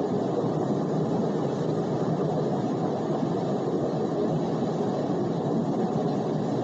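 Wind blowing steadily: an even, fairly deep rushing noise that holds at one level, with no gusts or breaks.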